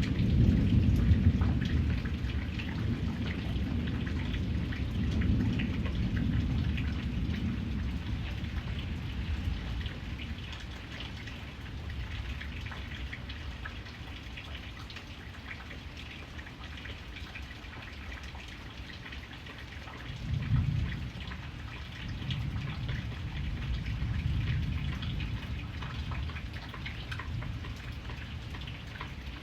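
Steady rain with rolling thunder. A low rumble is loudest about a second in and fades over several seconds, and another starts suddenly about two-thirds of the way through and rolls on for several seconds.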